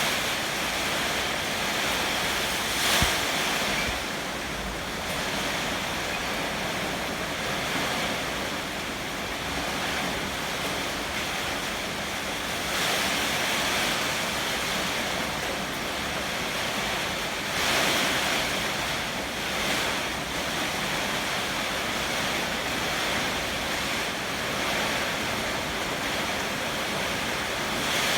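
Heavy typhoon rain and strong wind: a steady dense hiss that swells in gusts several times, with wind buffeting the microphone. There is a brief louder burst about three seconds in.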